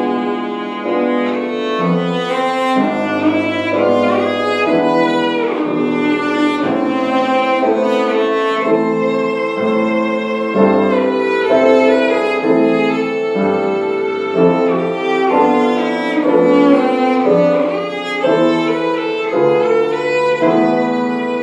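Violin playing a fast-moving classical melody over a piano accompaniment, with a sliding run of notes about six seconds in.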